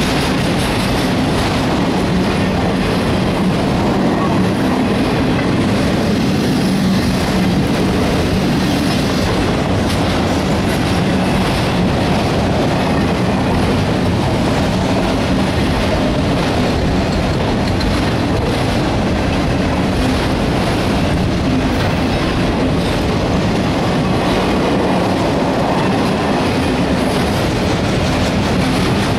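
Autorack freight cars of a CSX train rolling steadily past, steel wheels clicking over the rail joints.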